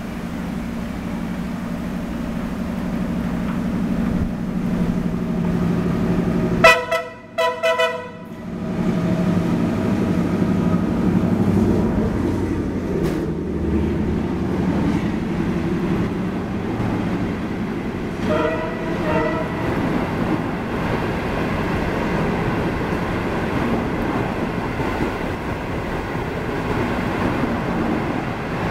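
Passenger train hauled by a diesel locomotive approaching and passing underneath in heavy rain, a steady engine drone over the hiss of rain. The locomotive's multi-tone horn sounds a loud blast of about a second and a half some seven seconds in, and a shorter, fainter one about eighteen seconds in. The rumble of the train rolling by follows.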